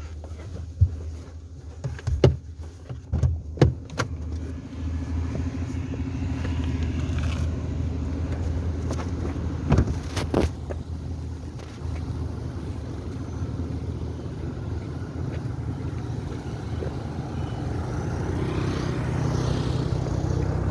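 Vehicle engine running steadily with a low hum, with several sharp knocks in the first four seconds and two more about ten seconds in.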